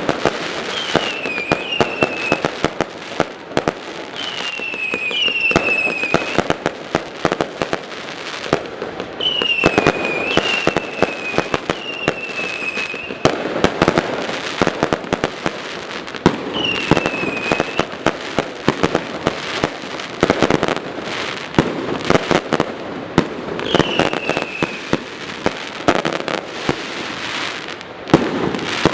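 Fireworks display: a continuous barrage of bangs and crackling reports, with a whistle falling in pitch sounding several times across the barrage.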